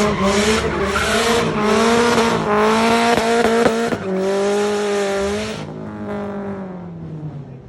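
A car engine held at high revs while the tyres spin and squeal in pulses, a burnout or drift; about four seconds in the revs dip and pick up again, then the engine winds down and fades near the end.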